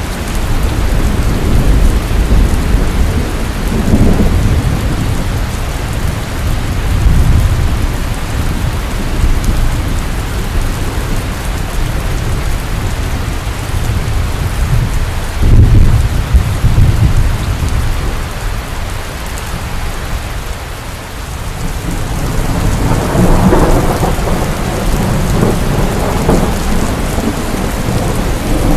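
Heavy rain pouring steadily, with rolls of thunder rumbling low several times; the biggest roll builds near the end.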